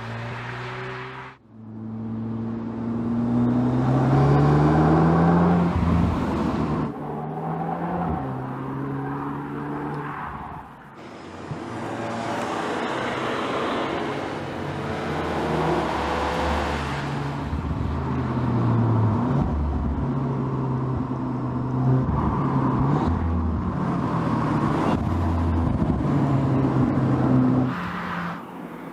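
2020 Audi S3's turbocharged 2.0-litre four-cylinder engine and exhaust under acceleration, the pitch climbing and then dropping again and again as it runs up through the gears. The sound breaks off briefly about a second in and again near the middle.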